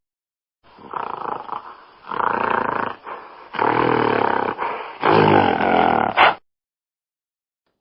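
A big cat roaring in a series of about four long, rough calls that cut off abruptly near the end.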